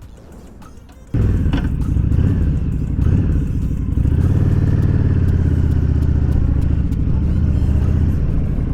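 Honda VTX1300's V-twin engine running, cutting in suddenly about a second in and holding a steady low note.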